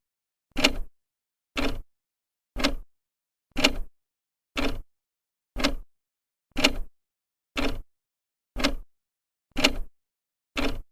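Old clock's second hand ticking once a second: short, sharp, evenly spaced ticks with silence between them.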